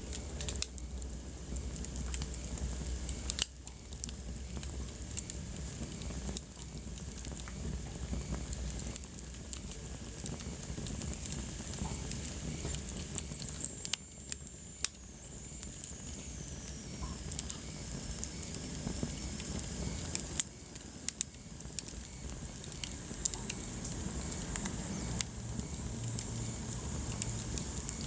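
Wood fire burning in a fireplace: a steady low rumble and hiss, with irregular sharp crackles and pops throughout. A faint high whistle falls in pitch about halfway through.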